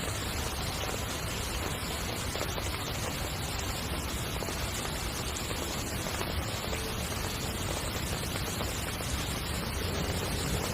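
Heavy rain falling steadily on a tent, a dense, even wash of sound with no break or change.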